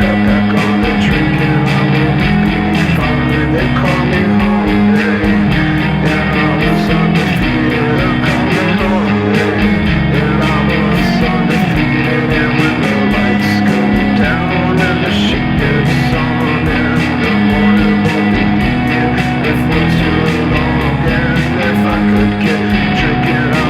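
Guitar-driven rock music with drums, built on a low riff that repeats about every four seconds.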